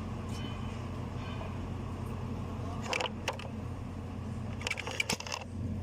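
Metal tools and parts clinking several times during mechanical work, in a short pair about halfway through and a quicker cluster near the end, over a steady low machine hum.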